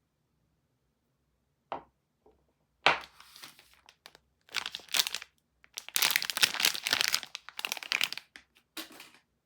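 Soap wrapper being torn open and crinkled by hand in irregular bursts. It starts after almost two seconds of quiet, and the longest, loudest stretch comes about six to eight seconds in.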